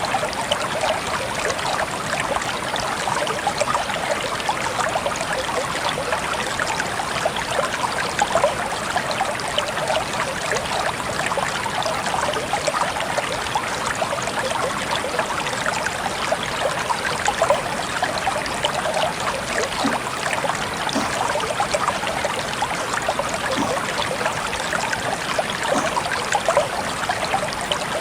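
Water trickling steadily, a dense patter of small splashes and droplets that never lets up.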